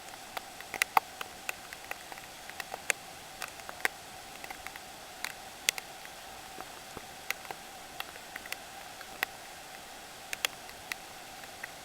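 Scattered raindrops ticking sharply and irregularly, a few a second, against a surface during a typhoon, over a steady faint hiss.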